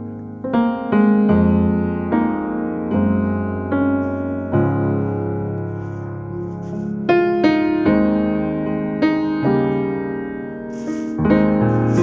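Slow background piano music: single notes and chords struck one after another, each ringing out and fading before the next.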